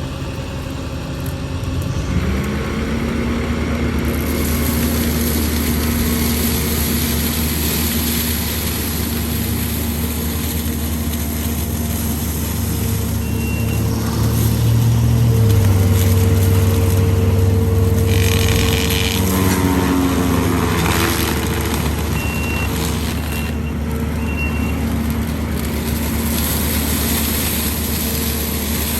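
Skid steer engine revving up, with its forestry mulching head spinning at speed and chewing into a tree. There is a broad shredding rush, and the engine note shifts as the cutter takes load.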